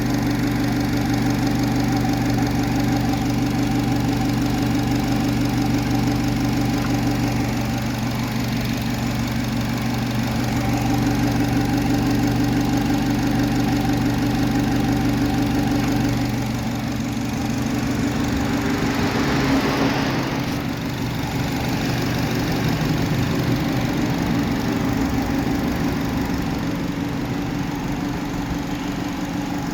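Chevrolet Malibu engine idling steadily, its note shifting a little about halfway through.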